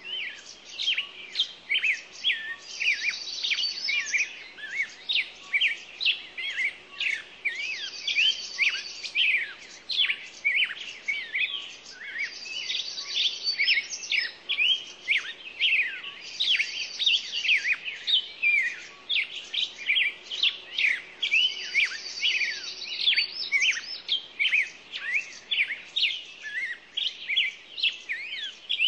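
Many birds chirping at once, a dense unbroken stream of short high chirps, with a buzzy trill coming back about every four to five seconds.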